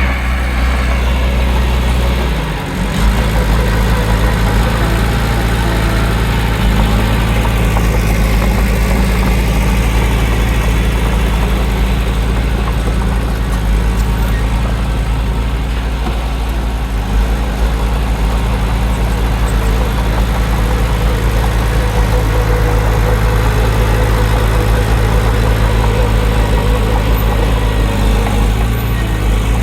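Heavy diesel engine of earthmoving machinery running steadily, with a brief dip about two and a half seconds in.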